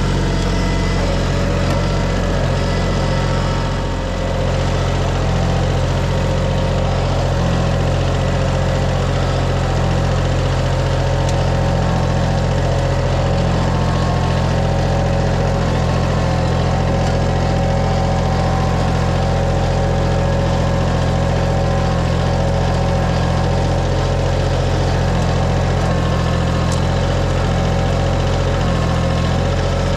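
Engine running steadily at a constant speed, with a brief dip in loudness about four seconds in.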